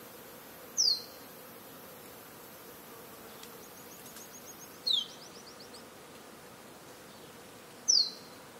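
Rainforest insects keeping up a steady buzzing bed, with a high insect whine that stops about halfway through. A bird gives three loud, short down-slurred whistles, about a second in, near the middle and near the end, with a faint fast trill of repeated high notes between the first two.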